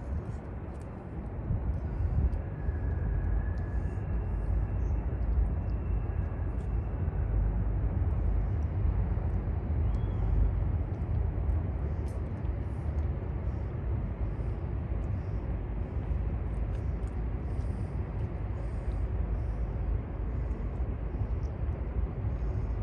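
A steady low rumble of outdoor city ambience that gets louder about a second in, with faint light ticking above it.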